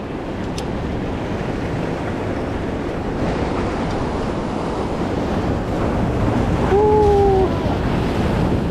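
Ocean surf washing at a rock jetty, a steady rushing noise, with wind buffeting the microphone. About seven seconds in, a brief pitched tone, slightly falling, rises above it for under a second.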